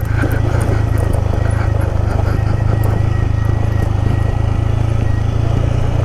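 Motorcycle engine running steadily under way, with a rapid even beat of firing pulses.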